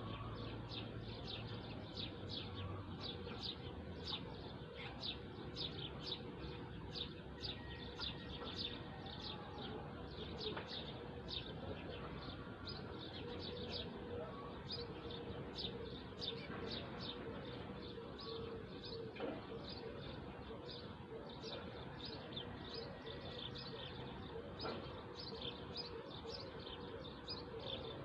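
Many small birds chirping together: a dense, unbroken stream of short, high chirps, each dropping quickly in pitch.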